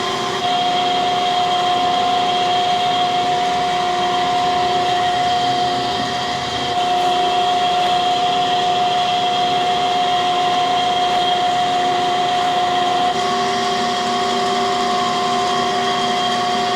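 Shop machinery running steadily with a high whine over a motor hum, shifting slightly in level a few times.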